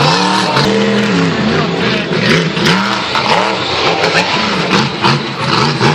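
Monster truck engine revving hard in repeated throttle blips, its pitch rising and falling about twice a second.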